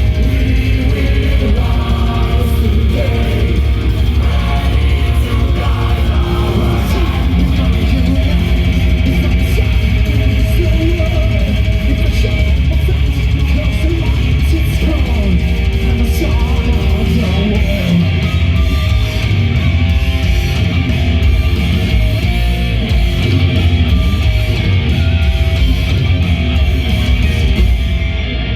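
Heavy metal band playing live: loud electric guitars over a dense drum beat, with the song cutting off at the very end.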